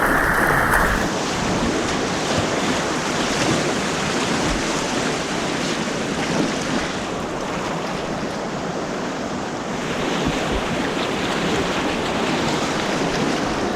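White water rushing through an artificial slalom course: a steady, continuous rush of turbulent water.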